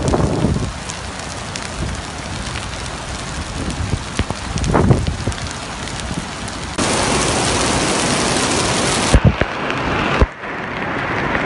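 Heavy rain pouring down and splashing on wet paving, a dense steady hiss with a few low rumbles. About two thirds of the way in the rain jumps louder and brighter, and a few sharp knocks come near the end.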